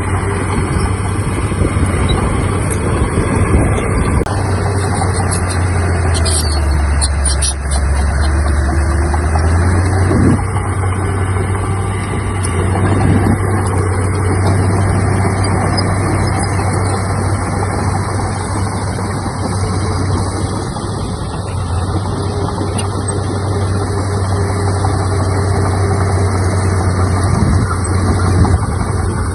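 Heavy diesel engine running steadily under work. Its pitch sags for a few seconds about a quarter of the way in, then picks back up.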